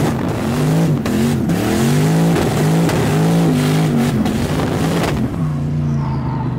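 Drift car's engine revving hard, its pitch swinging up and down over and over, with heavy tyre and wind noise, heard from inside the cabin. About five seconds in the rush of noise drops away and the engine settles to a lower, steadier note.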